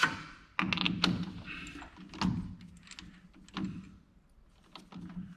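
Scattered clicks, taps and light clanks of metal tools and parts being handled at a lathe during setup for drilling a center.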